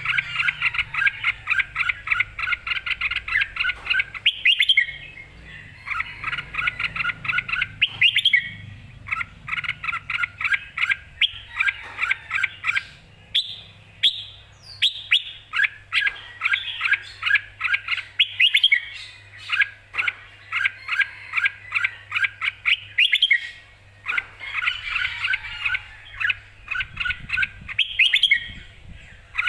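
Red-whiskered bulbul singing: loud phrases of quick, repeated notes a few seconds long, with short pauses between them.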